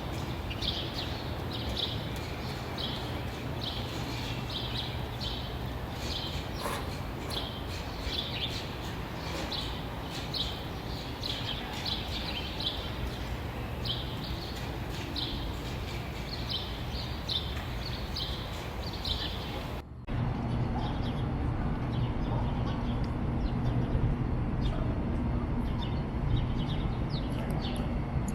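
Birds chirping in short, repeated calls, one to two a second, over a steady background hiss. About twenty seconds in, the sound cuts abruptly to another recording where the chirps go on over a louder low rumble.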